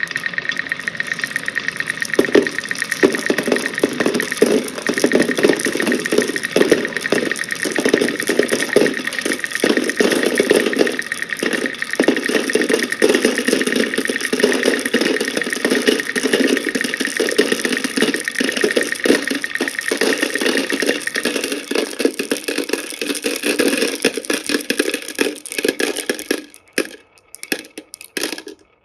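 A stream of small balls rolling and clattering down a wooden wave track, a dense continuous rattle of clicks. It grows denser about two seconds in and thins to scattered clicks near the end as the last balls run through.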